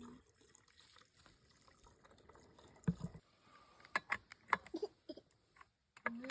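A dull thump, then about a second later a quick run of sharp knocks and clicks.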